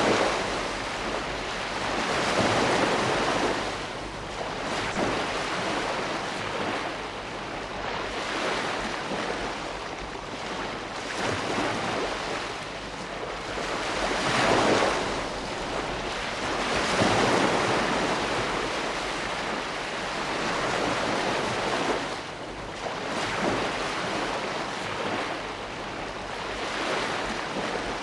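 Ocean waves breaking and washing on a shore, a continuous surf hiss that swells and ebbs with each wave, the strongest surges about 15 and 17 seconds in.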